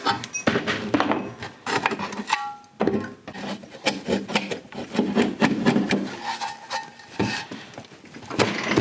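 Metal lift-arm parts being worked by hand: irregular scraping and rubbing with many small clicks and knocks, and a short metallic ring a little over two seconds in.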